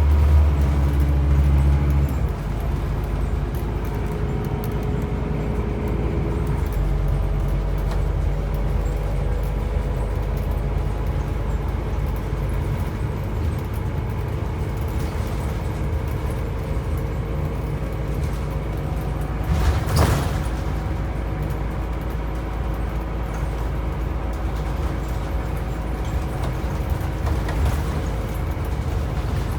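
Scania N270UB OmniCity bus's nine-litre five-cylinder diesel engine running steadily, with a heavier low rumble in the first two seconds. A short loud burst of noise comes about two-thirds of the way through.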